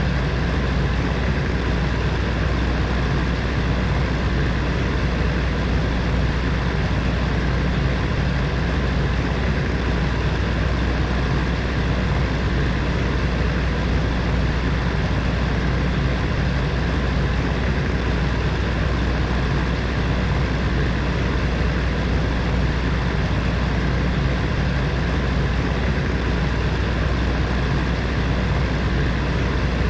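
Heater fan running steadily: an even whooshing whir over a strong low hum, unchanging throughout.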